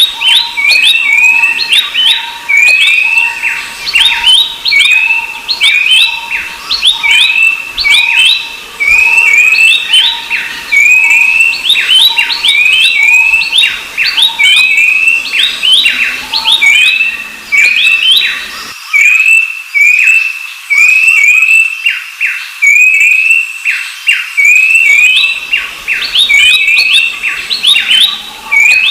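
Babblers calling nonstop: a fast, busy run of short, repeated chirping notes, several a second.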